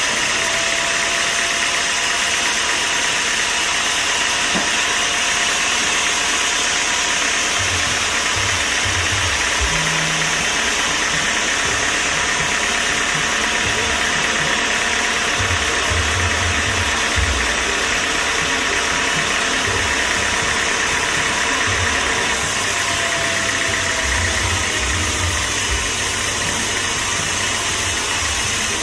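Sawmill machinery running: a loud, steady mechanical noise with a constant high whine and an uneven low rumble underneath.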